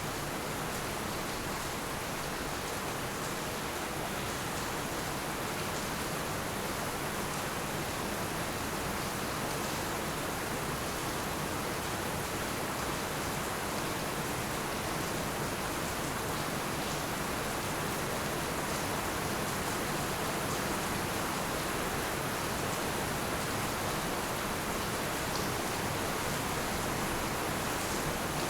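Heavy rain falling steadily, a dense even hiss with faint scattered patter and no thunder.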